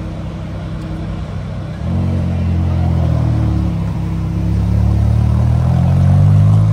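Car engine running, louder from about two seconds in, its pitch and volume rising near the end as it revs or draws closer.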